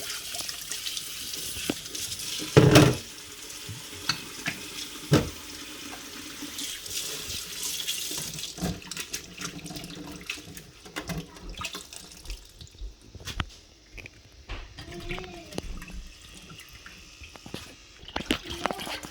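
Tap water running into a sink while cicadas are washed by hand, with splashing and a couple of sharp knocks early on. The steady rush of water eases off about two-thirds of the way through, leaving small splashes and clinks.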